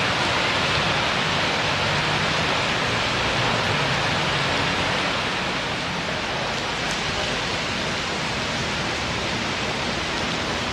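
Heavy rain pouring down steadily, a dense, even hiss, with a faint low hum beneath it in the first few seconds.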